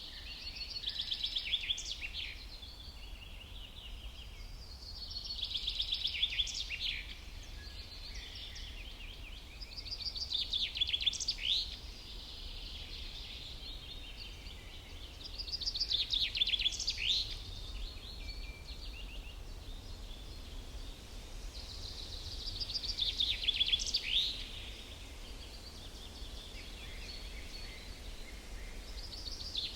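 A songbird repeating the same short song about every five to six seconds: a quick run of high notes that ends in a sharp downward-sweeping note, over a steady low rumble.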